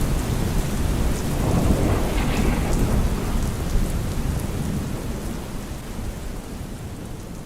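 Steady rain in woodland with a low rumble of thunder underneath, the whole sound fading down gradually over the last few seconds.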